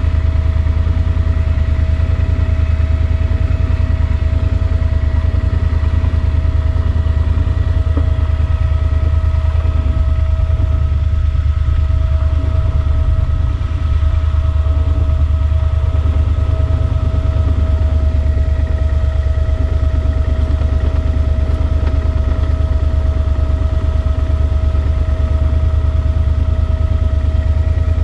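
Yamaha Super Ténéré XT1200's parallel-twin engine running at a steady pace under way, with a constant pitch that does not rise or fall.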